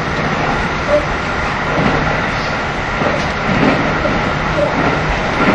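Running sound of a KiHa 75 diesel railcar heard from inside the car: a steady rumble of wheels on rail with a low steady hum underneath.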